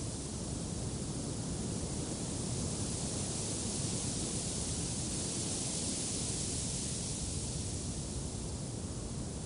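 Steady wind noise, a soft even rush that swells a little in the middle and eases again.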